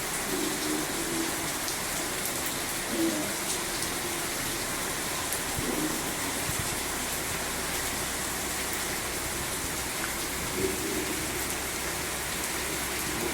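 Steady rain falling, a continuous even hiss, with a few faint low sounds now and then.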